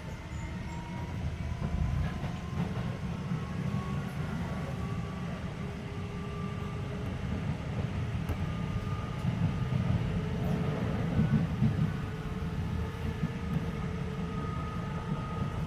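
Keisei 3400-series electric train heard from inside the car as it runs: a low rumble of wheels on rail with a motor and gear whine that rises slowly in pitch as the train accelerates, then holds steady near the end, with a few light clicks of the wheels over rail joints.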